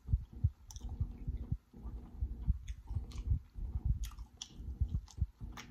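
Close-miked chewing of soft food, a steady run of low jaw thuds, with a few sharp wet smacks and clicks from the lips and mouth.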